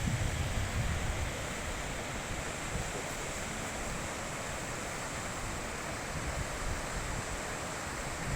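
Mountain river rushing steadily, a continuous even hiss of flowing water. Low rumbles rise in the first second and again at the very end.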